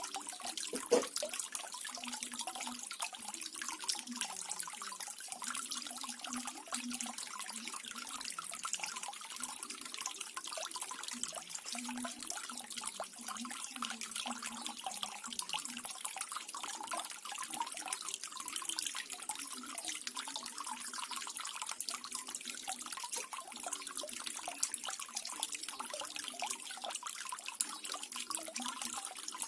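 Water from a small waterfall splashing and trickling steadily, with a faint burbling underneath. A single brief louder splash or knock comes about a second in.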